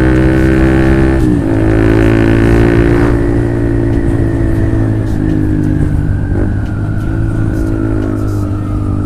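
Honda CB150R single-cylinder engine running through an aftermarket Lone Ride exhaust as the bike is ridden. The engine note drops sharply about a second in, then climbs steadily again, with a few smaller rises and falls in engine speed later on.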